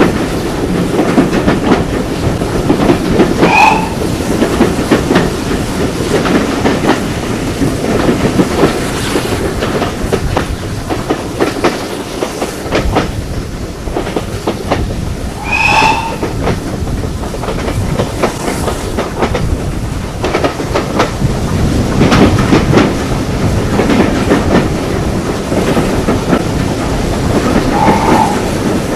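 Heritage railway carriage running along the line, wheels clattering over the rail joints under a steady rumble. Three short high squeals come through, roughly twelve seconds apart.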